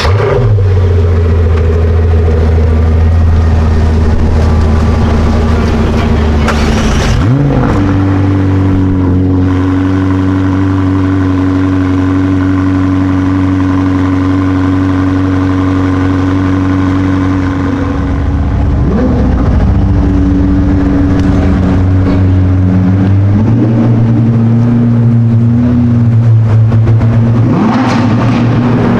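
A sports car's engine idling steadily. It is blipped on the throttle about seven seconds in, again near nineteen seconds and once more a few seconds later, and the revs and noise build near the end.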